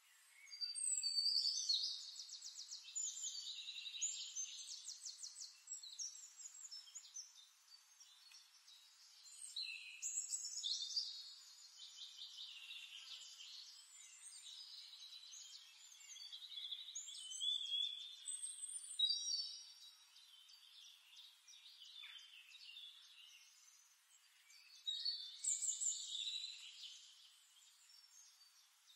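A small songbird singing in repeated phrases of rapid trills and chirps, each a second or two long and several seconds apart.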